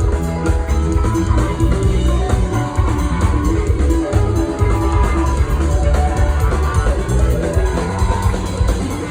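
Live rock-funk band playing loud: electric guitar and bass over a drum kit, an instrumental stretch with no singing.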